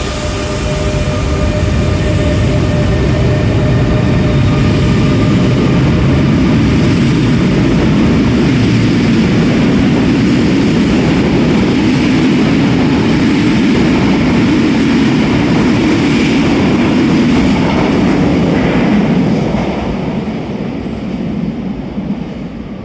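RER A electric commuter train running through the station: a loud, steady rolling rumble that builds about a second in and fades away over the last few seconds.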